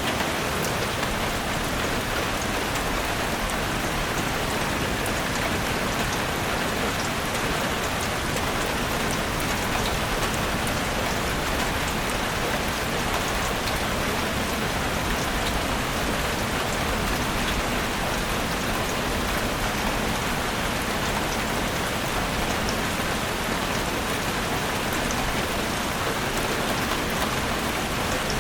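Steady rain falling in a forest, a constant hiss with scattered drop ticks and no breaks.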